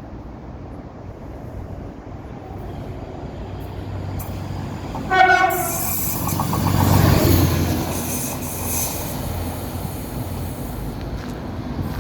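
Robel rail work train approaching and passing close by. Its horn gives one short honk about five seconds in, then the engine and wheel-on-rail noise build to a peak a couple of seconds later and fade as it goes past.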